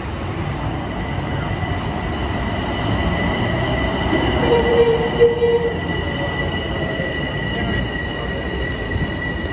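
A train passing: a steady rumble with a continuous high squeal from the wheels, growing a little louder around the middle.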